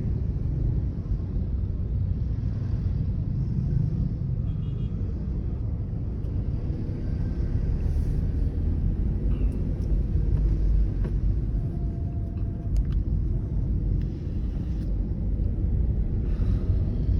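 Steady low road rumble inside a moving car: tyre and engine noise heard from the cabin, with a few faint clicks and knocks.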